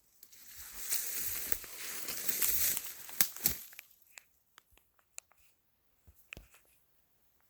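Footsteps pushing through dry brush and leaf litter, a rustling crunch for about three seconds, then two sharp twig snaps, followed by a few scattered small crackles as the steps slow.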